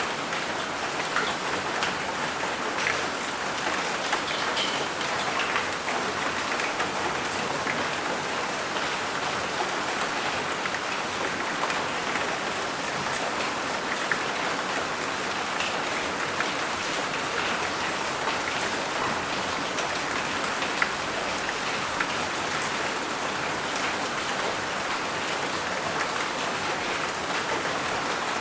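Steady rain falling on a surface, with many small sharp drop ticks and no thunder.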